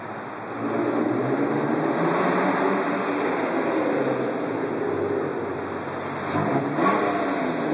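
2000 BMW 328i's inline-six engine running through a muffler-delete exhaust. It gets louder about half a second in, and its pitch rises near the end as it revs.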